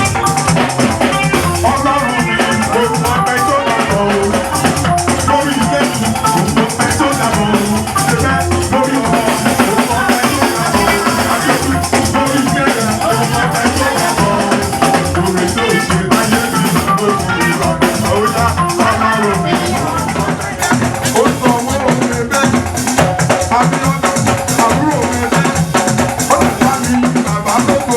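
Live church music: a band with drums, a shaker rattle and guitar playing a steady, dense rhythm.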